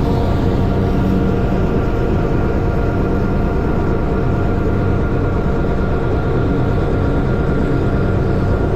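Allis-Chalmers farm tractor's engine running steadily at an even speed.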